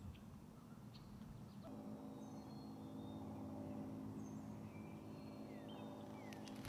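Faint birds chirping in short, falling calls. A soft, steady low chord comes in under them about two seconds in, most likely background music.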